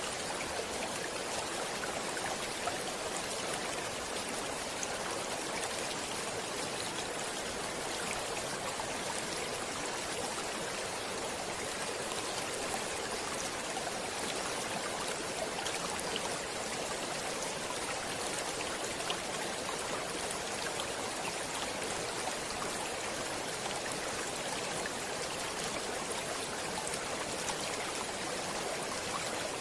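Flowing stream water: a steady, even rush with tiny scattered splashes.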